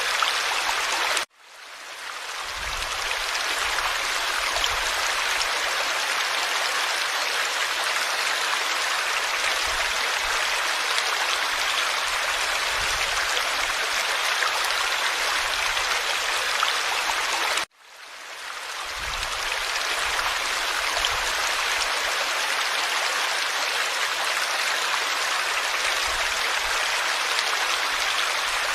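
A forest stream flowing, a steady rush of running water. Twice, about a second in and again a little past halfway, the sound cuts out abruptly and fades back in over a second or two.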